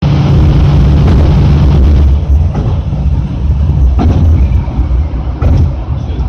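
ASA-301 diesel railcar's engine running under power, then easing off about two seconds in as the car coasts in to stop at a station. A few single knocks from the running gear come at intervals of about a second and a half.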